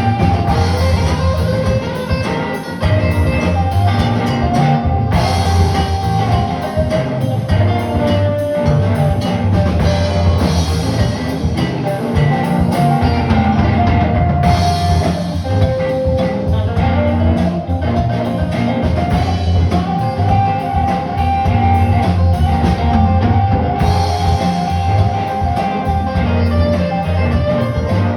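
Live band playing an instrumental passage with guitar and drum kit, without singing.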